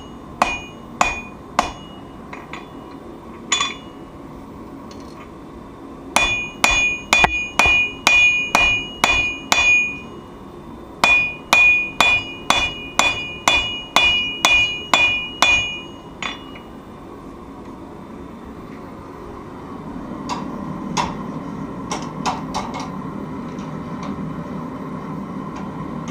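Forging hammer striking hot knife steel on an anvil, the anvil ringing after each blow, in two fast runs of about three strikes a second with short pauses between. From about twenty seconds in, a steady low machine hum comes in, with a few light taps.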